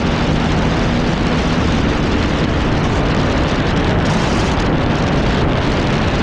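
Heavy wind rush over the microphone at riding speed, with the Yamaha R1's inline-four engine holding a steady hum underneath as it cruises in sixth gear.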